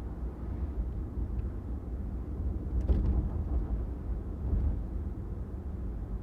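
Steady low road rumble of a car driving along a city street, with a brief louder rush about three seconds in.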